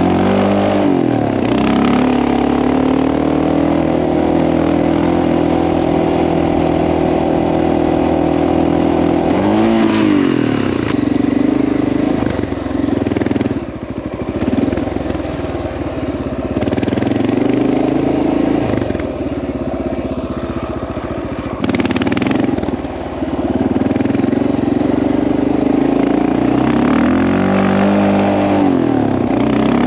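Honda XR650L's single-cylinder engine running under load, its pitch falling and climbing back again several times as the throttle is eased off and opened.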